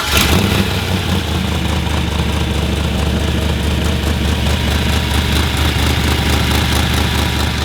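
Drift truck's engine catching right at the start and then idling steadily, run after a cool-down to recirculate the coolant through the block.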